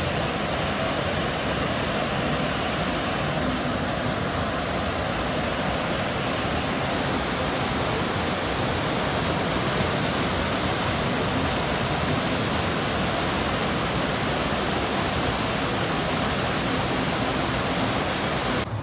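Steady rush of water from a waterfall or fast mountain stream.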